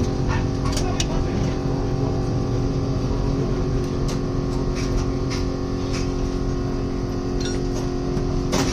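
Steady mechanical hum with a low rumble and a few constant tones, broken by scattered light clicks and taps.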